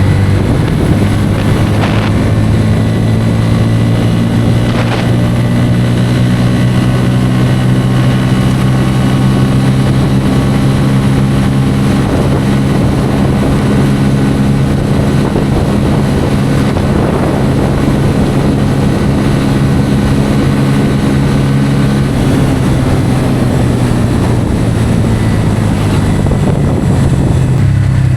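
Bajaj Pulsar N160's single-cylinder engine running steadily at cruising speed on a motorcycle, with wind noise on the microphone. About 22 seconds in, the engine's higher tones drop away.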